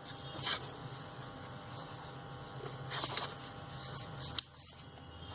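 Strips of card being folded and creased by hand: two short papery rustles, about half a second and three seconds in, and a light click near the end, over a low steady hum.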